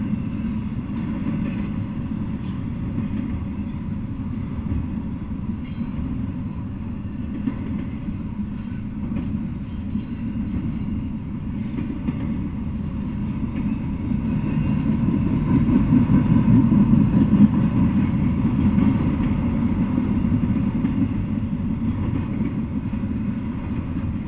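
Double-stack intermodal freight train rolling past: a steady rumble of the well cars' wheels on the rails. It swells to its loudest a little past the middle, then eases off slightly.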